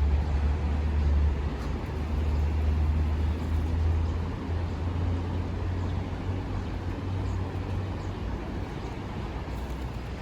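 Low, steady rumble of city traffic under a wash of background noise, easing off near the end.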